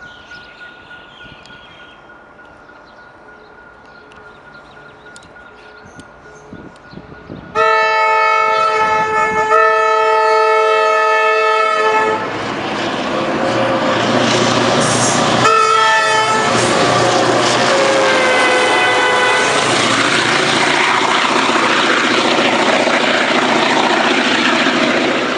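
P class diesel locomotive running light engine past at speed: a loud horn sounds in two blasts about a third of the way in. The locomotive's engine and wheels then go by close and loud, with one more short horn blast partway through, until the noise falls away at the very end.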